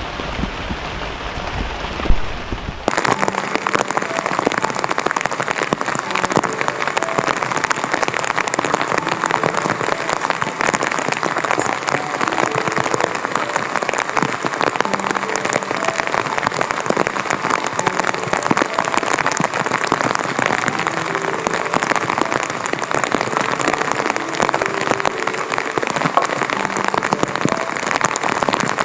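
Heavy typhoon rain falling steadily in a dense patter. There is a sharp knock about 2 seconds in. About a second later the sound changes abruptly to a brighter, closer patter that holds steady.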